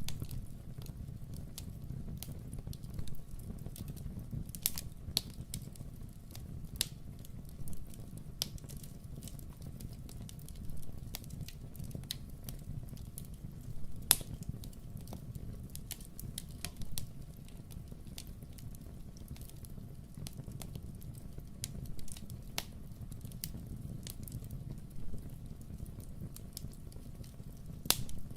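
Wood fire crackling in a fireplace: a steady low rumble with scattered sharp pops, the loudest pop about halfway through and another near the end.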